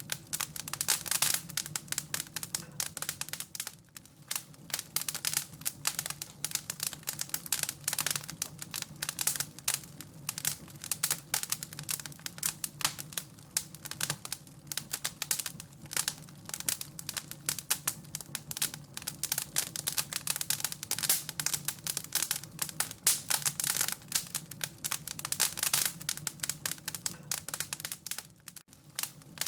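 Wood fire crackling and popping in a fireplace: dense, irregular snaps over a low, steady hum.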